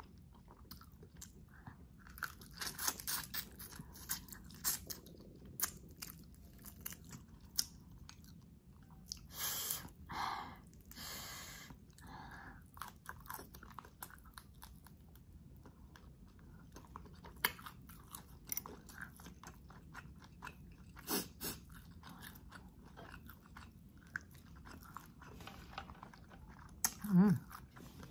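Close-up chewing, crunching and biting of spicy garlic butter shrimp eaten by hand, with many short wet clicks and smacks. There are a few longer noisy bursts around ten seconds in and a louder short sound near the end.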